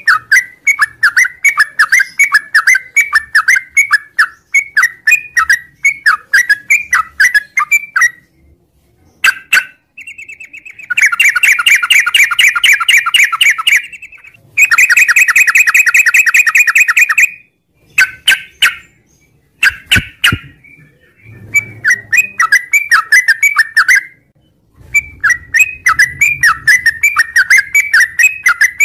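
Yellow-vented bulbul (trucukan) singing its long chattering song: fast runs of loud chirps broken by short pauses, with two long, rapid, buzzy trills in the middle.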